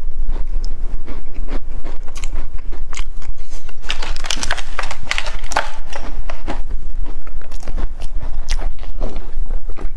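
Close-miked biting and chewing of milk-dunked cookies: a run of small crunches and clicks, densest about four to six seconds in.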